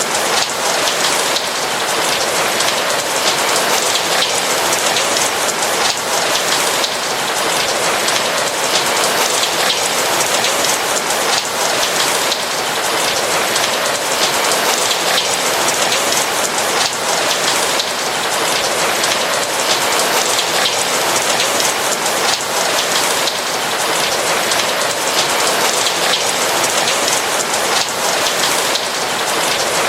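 Steady rain falling, a dense, even patter of raindrops with no thunder.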